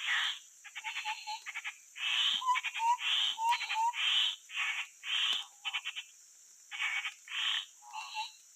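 Grey-headed babbler calls: a string of short harsh notes, some broken into quick rattles, mixed with a few brief rising whistles, coming in irregular bursts with short gaps.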